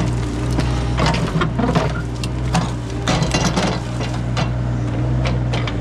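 A digging machine's engine runs steadily while its bucket scrapes and knocks through buried rubble and trash, with irregular clinks and thuds.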